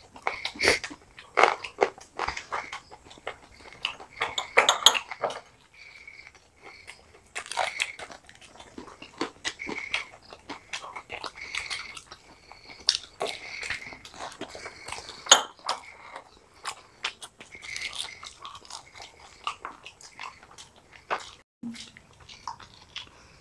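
Two people biting and chewing fried chicken lollipops, with irregular crunches of the fried batter and wet mouth smacks.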